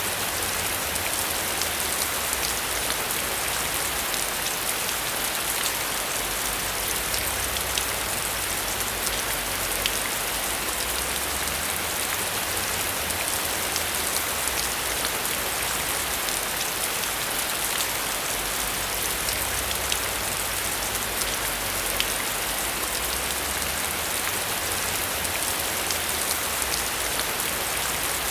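Heavy rain falling steadily: a dense, even hiss peppered with many sharp drop ticks.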